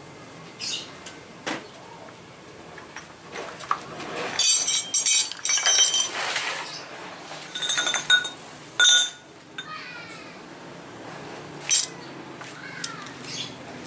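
Hard objects clinking and rattling together, with ringing metallic clinks in two clusters, about four seconds in and again about eight seconds in, and scattered clicks in between.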